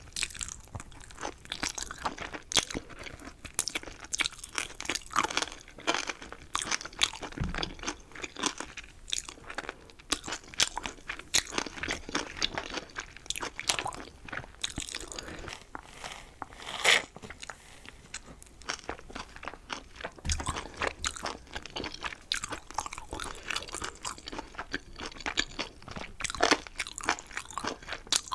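Close-miked eating sounds: crunchy chewing and biting of chicken, a dense run of short, crisp crunches.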